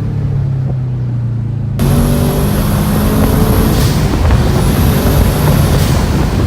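The 6.2-litre LT4 V8 of a twin-turbo 2017 Camaro ZL1 idling steadily. About two seconds in, the sound jumps suddenly to louder, rougher engine noise with a thin high whine above it.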